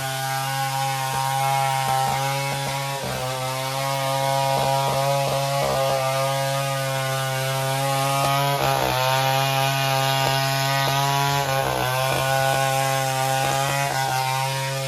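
Chainsaw running at high revs while cutting, its pitch sagging and recovering about three times as the chain bites into the wood of a coconut tree being felled.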